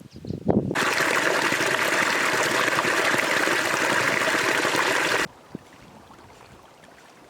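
Steady rush of running water for about four and a half seconds, starting and stopping abruptly, after a few short loud bursts at the start.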